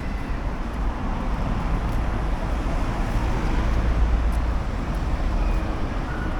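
City street ambience: steady traffic noise with a deep low rumble.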